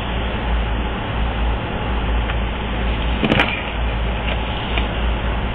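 Steady low rumble under an even hiss, with one short click about three seconds in.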